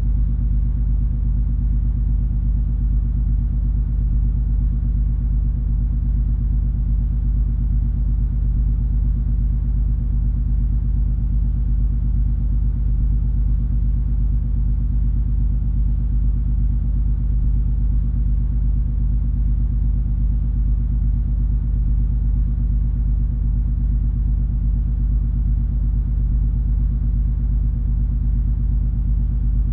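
Steady low drone of the MS Color Fantasy cruise ferry under way: a deep engine and hull rumble with a constant hum of several steady tones.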